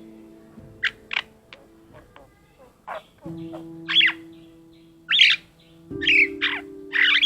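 Black-collared starling singing its varied song: a string of short, harsh, whistled and squawking notes, about one a second, several of them sweeping down in pitch.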